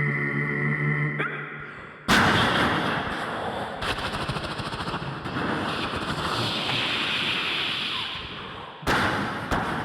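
Vocal imitation of a battle. A steady humming drone stops about a second in. A sudden blast follows about two seconds in, then a long stretch of rapid gunfire and explosion noise, and another sudden blast near the end.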